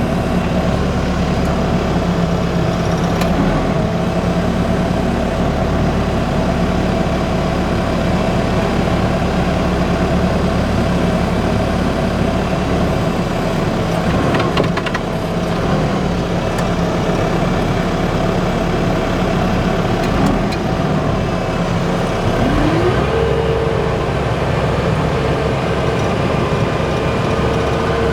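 Tractor engine running steadily; about three-quarters of the way through its revs rise and hold at the higher speed.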